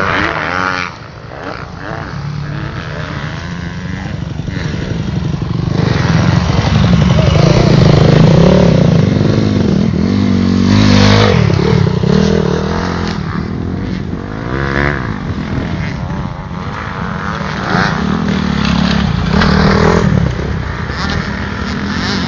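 Motocross bikes running on a dirt track, engines revving up and falling back as they pass, loudest as bikes go by close about a third of the way in.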